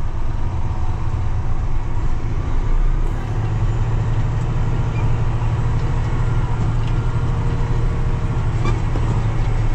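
Heavy farm vehicle engine running steadily under load, a low drone that grows a little stronger about three seconds in.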